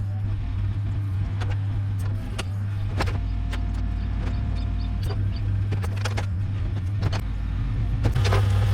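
A heavy-equipment diesel engine running steadily with a constant low hum, and scattered sharp cracks and snaps over it.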